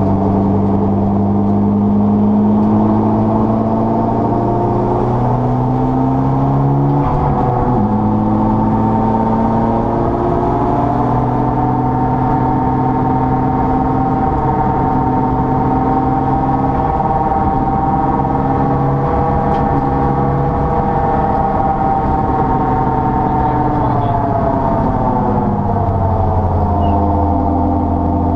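Mitsubishi Lancer Evolution VI Tommi Mäkinen Edition's turbocharged four-cylinder engine running hard on track. Its pitch steps with gear changes, holds high through a long stretch, then falls away near the end as the car slows.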